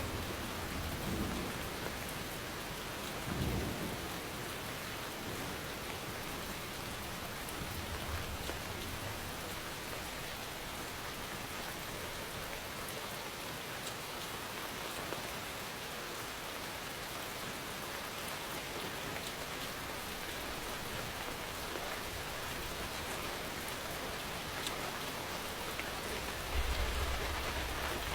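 Steady heavy rain hissing on surfaces, with low thunder rumbles breaking through a few times, most plainly about three seconds in and near the end.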